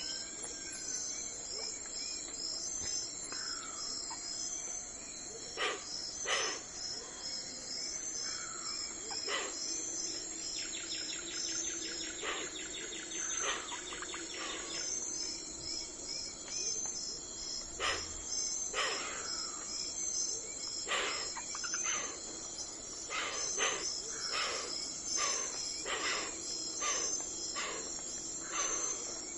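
An early-morning outdoor soundscape: crickets or similar insects chirping in a steady, evenly pulsing chorus, with scattered short bird chirps and calls over it, coming more often in the second half. A rapid trill runs for a few seconds before the middle.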